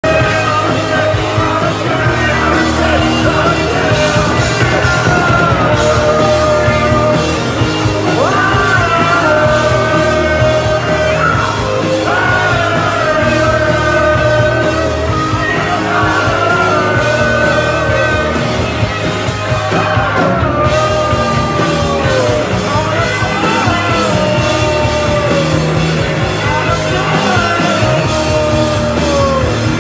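Rock band playing live and loud, a singer's voice bending and gliding over a steady, heavy low end.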